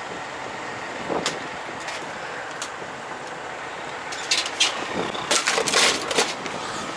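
Steady hum of an idling semi truck, with a few short clicks early and a run of sharp, noisy bursts about four to six seconds in.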